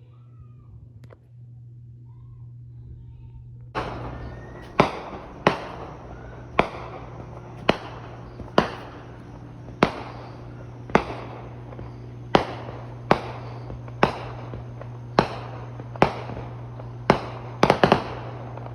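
Fireworks going off in a run of sharp bangs, about one a second, starting about four seconds in, the last few coming closer together near the end. A steady low hum runs underneath.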